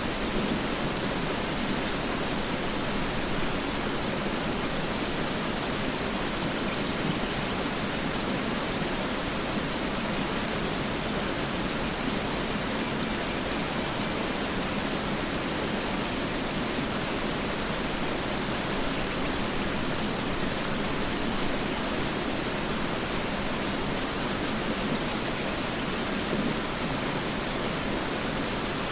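Mountain river rushing, a steady, even noise of flowing water with no breaks or changes.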